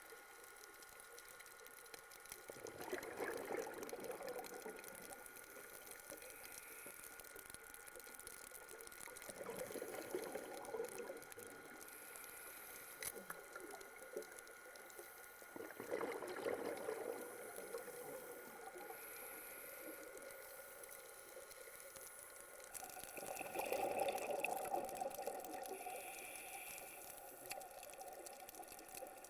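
Scuba diver's exhaled bubbles gurgling out of a regulator underwater: four bursts, roughly one every six to seven seconds, in time with the diver's breathing.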